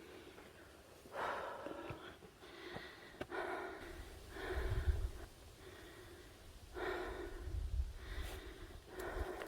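A person breathing hard while climbing a steep trail: heavy breaths come every second or two, with a few low thumps in between.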